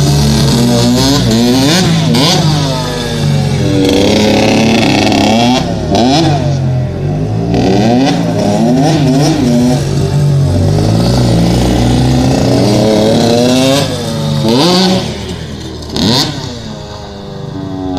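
Dirt bike engine revving hard, its pitch climbing and dropping again and again as the throttle is worked, with a steadier engine note running underneath.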